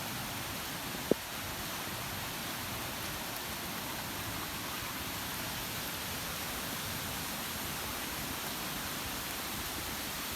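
Steady, even hiss of rain in the forest, with one sharp click about a second in.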